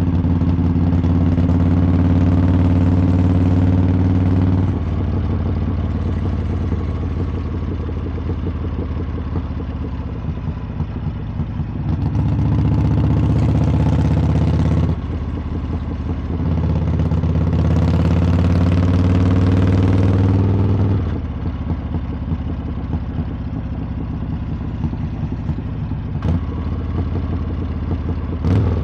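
Harley-Davidson V-twin motorcycle exhaust under way, swelling louder in three stretches as the throttle is opened and falling back between them. Two sharp short knocks come near the end.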